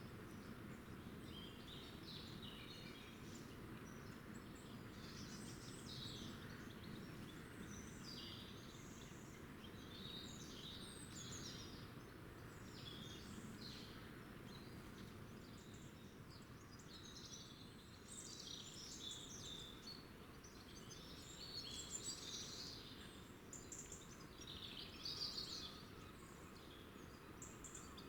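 Small birds chirping and twittering on and off, with a few louder chirps near the end, over a faint steady low background rumble.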